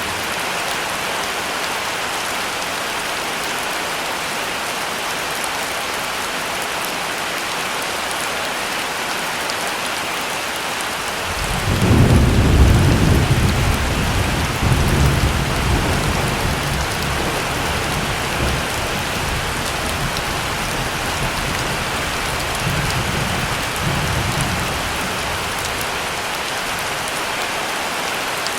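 Steady heavy rain, with a roll of thunder that breaks in suddenly about eleven seconds in and rumbles on in waves for over ten seconds before fading back into the rain.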